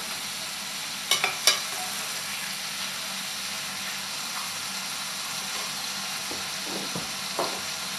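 Sliced mushrooms sizzling in olive oil in a pan as they give up their water, stirred with a utensil that clicks sharply against the pan twice about a second in.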